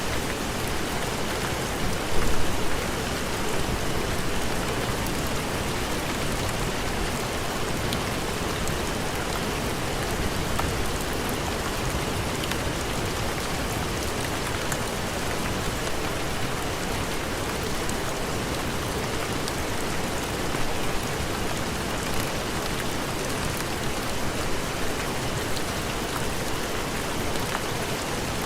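Steady heavy rain, a dense even hiss with scattered drop ticks, and a brief louder burst about two seconds in.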